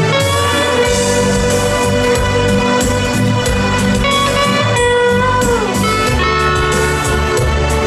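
Hawaiian steel guitar playing a slow melody over a backing accompaniment with bass. About five seconds in, the slide glides a held note smoothly down in pitch.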